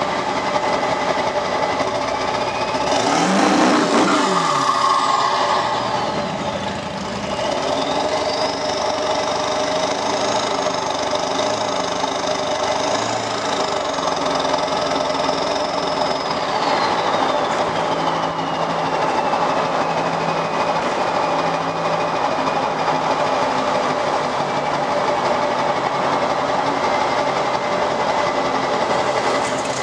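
Straight-piped 7.3 L Powerstroke V8 turbodiesel running with its diesel clatter. It is revved briefly about three seconds in, then a high whistle from the turbo climbs, holds for about ten seconds and slowly winds down as the engine settles back to idle.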